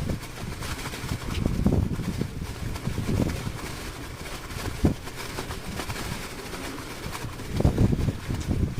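Strong wind gusting over the microphone on a small fishing boat at sea, the bursts coming every second or so, with the boat's engine running as a low hum underneath.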